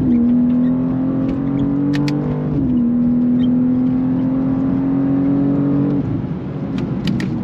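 BMW G87 M2's twin-turbo 3.0-litre inline-six accelerating, heard from inside the cabin. The engine note climbs, drops with an upshift about two and a half seconds in, and climbs again. About six seconds in the steady note falls away as the throttle is lifted.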